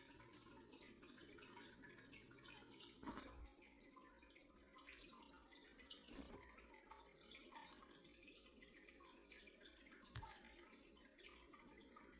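Faint water dripping and trickling, with scattered small clicks.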